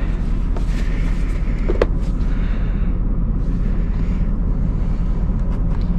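Steady low rumble with light clicks and rattles of small parts being searched through in a box, one sharper click about two seconds in.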